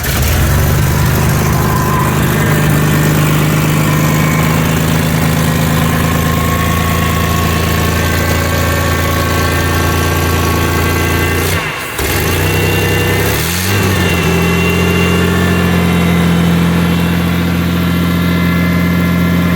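Truck engine catching on the start button after sitting a long time in the snow, then idling steadily. About twelve seconds in the sound briefly drops, then the engine revs up and back down once and settles into a steady idle.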